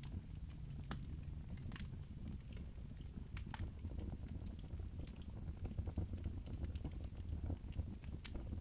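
Wood fire crackling in a fireplace: scattered sharp pops and snaps at irregular moments over a steady low rumble.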